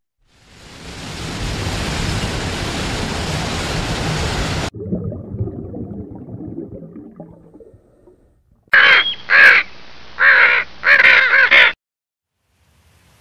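Four loud, harsh cawing bird calls in quick succession near the end, each with a rough, harmonic-rich tone. Before them comes a steady noisy hiss, which cuts abruptly to a low rumble that fades away.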